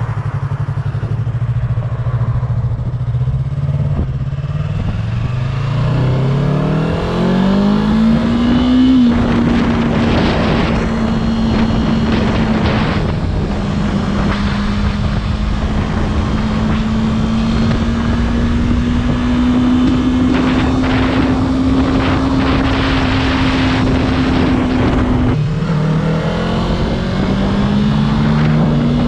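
Motorcycle engine under way: a low steady drone that climbs in pitch over a few seconds as it accelerates, then holds a higher steady note. Near the end the pitch drops sharply and climbs again. Heavy wind rush runs throughout.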